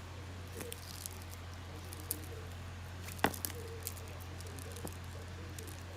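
Light scattered clicks and taps from strands of wooden beads being handled, with one sharper click about three seconds in, over a steady low hum.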